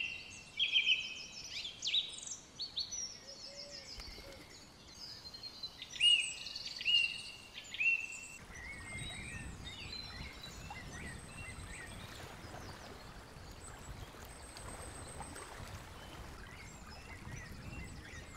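Songbirds singing in short, repeated chirping phrases for about the first eight seconds. The song then gives way to a quieter steady outdoor background with only faint, scattered bird calls.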